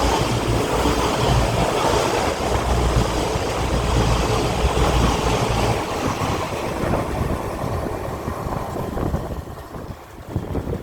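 Electric train running through the station with a steady rumble, then fading away over the last few seconds as it moves off.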